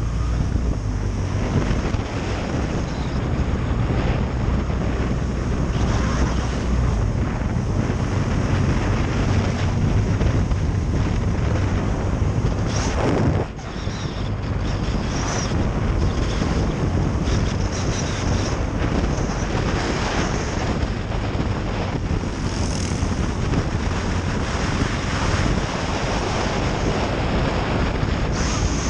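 Strong wind buffeting the microphone: a steady, loud rushing noise that dips briefly about thirteen seconds in.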